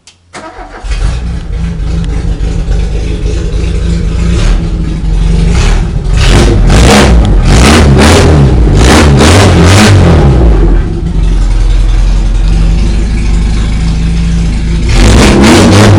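Volkswagen AP inline-four engine cranking and catching, then idling and revved in a series of short, sharp blips before settling back to a steady idle.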